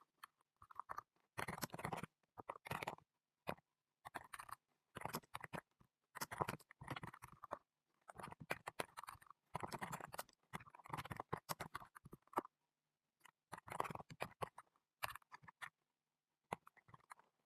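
Computer keyboard typing in quick bursts of rapid clicks, broken by short pauses.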